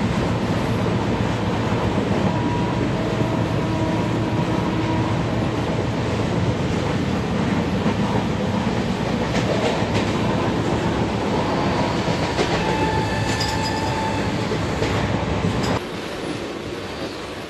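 Steady, loud running noise of an Indian Railways passenger coach rolling on the track, heard inside the coach: a dense rumble and clatter with faint high squealing tones midway. The noise drops suddenly about a second and a half before the end.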